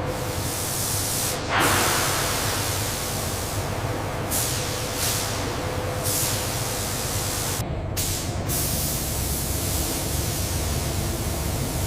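Steady loud rushing hiss over a low rumble, like forceful air or spray noise, changing abruptly several times as if at cuts.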